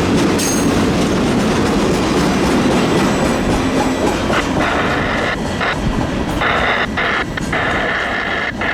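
Freight cars rolling past with a steady rumble and clickety-clack of wheels over the rail joints as the train slows. From about halfway, a high steady squeal cuts in and out, typical of wheels or brakes squealing on a slowing train.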